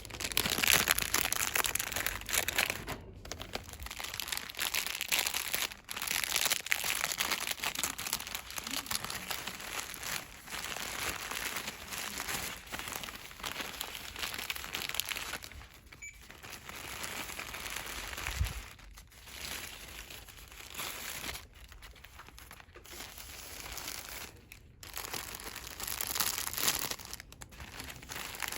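Fast rustling and crinkling of cosmetics packaging handled by hand, with a few brief pauses.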